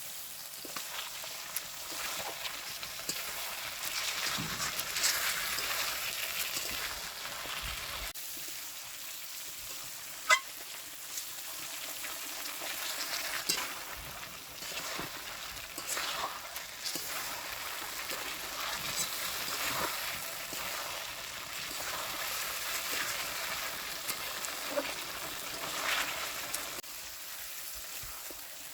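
Chicken pieces frying in spiced oil and masala, sizzling steadily, while a spatula stirs and scrapes the pot with occasional sharp clinks, the loudest about ten seconds in.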